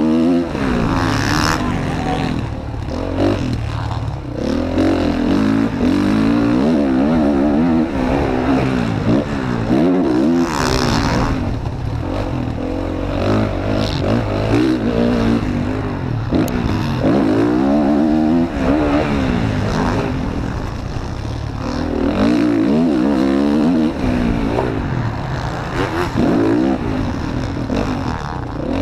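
Honda CRF230F dirt bike's single-cylinder four-stroke engine revving up and down over and over as the rider races the motocross track, its pitch rising and falling with each throttle opening and gear change. Short gusts of wind noise hit the microphone now and then.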